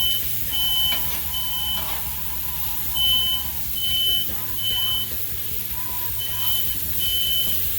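Smoke alarm beeping in groups of three high, even half-second beeps with a pause between groups, set off by smoke from the hot griddle. Under it run a steady low hum and the even hiss of smashed burgers sizzling on the griddle.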